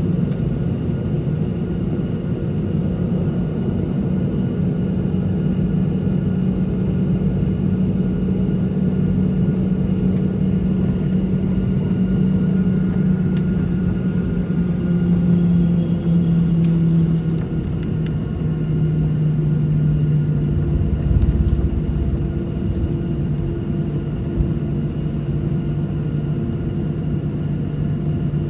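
Airliner jet engines running steadily, heard from inside the passenger cabin: a continuous drone whose pitch drops slightly a little past halfway through, with a brief low rumble soon after.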